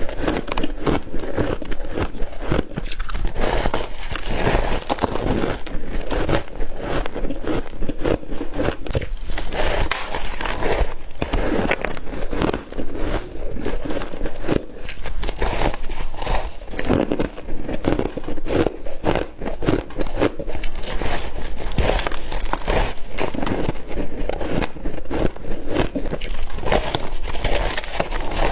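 Frost being bitten and chewed close to the microphone: a dense, unbroken run of crackling crunches.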